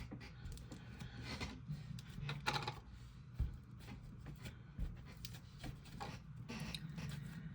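Hands kneading and poking slime, a string of short, irregular sounds.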